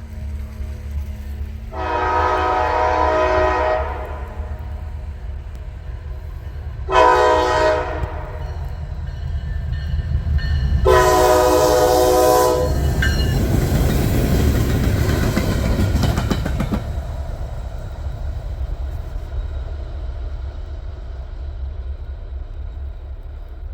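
Two Norfolk Southern SD60E diesel locomotives running light, sounding the horn three times (long, short, long) over a steady low engine rumble. The engine and rail noise swell loudest as the units pass, a few seconds after the last blast, then fade.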